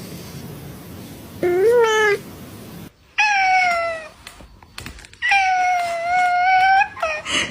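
Domestic cat meowing four times: a short rising meow, a falling one, a long drawn-out meow of nearly two seconds, and a brief one near the end.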